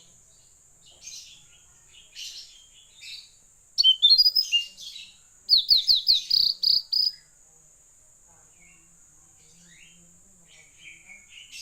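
Tledekan laut, a blue flycatcher, singing in bursts of rapid, high, rising chirps, loudest a few seconds in, with quieter scattered calls between.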